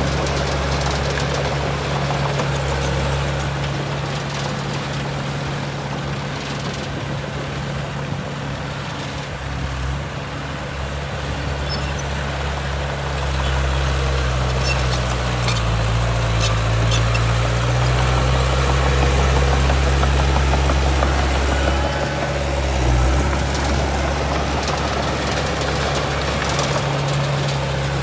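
A heavy diesel engine of earthmoving machinery running steadily. About halfway through its note dips and comes back up, and it grows somewhat louder. A few light clicks sound around the same time.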